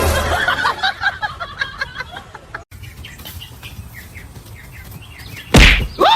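Birds chirping and calling, dense at first and fainter after a cut. A loud sudden noise comes near the end.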